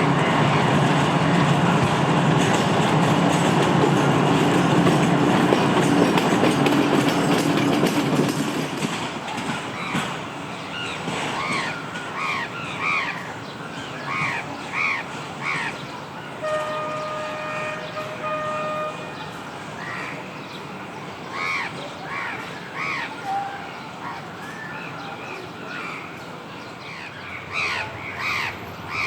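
Diesel train running past close by, its low engine hum and rail noise loud for about the first eight seconds and then fading away. After that, crows caw repeatedly, and a distant train horn sounds one steady note for about two and a half seconds midway.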